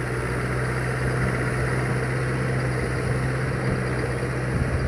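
Mahindra 585 tractor's diesel engine running steadily with an even low hum.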